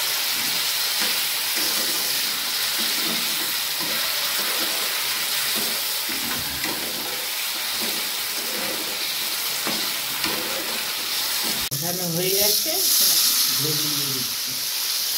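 Potatoes and spice paste sizzling in oil in a hot non-stick kadai, stirred and scraped with a metal spatula while the masala is fried down. About twelve seconds in the sizzle grows louder as water from a steel bowl is poured into the hot pan.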